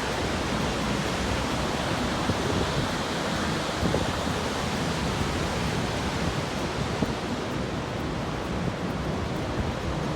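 Large waterfall in flood, Cumberland Falls, giving a steady, even rush of falling water.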